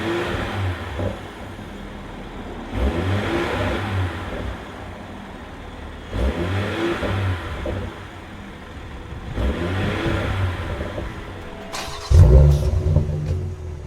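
INEOS Grenadier's 3.0-litre BMW straight-six revving through a Milltek Sport stainless steel aftermarket exhaust, rising in pitch about every three seconds, with a louder, deeper rev about twelve seconds in.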